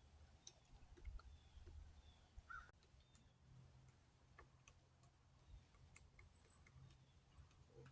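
Near silence: faint outdoor ambience with scattered faint ticks and a few faint, short bird chirps.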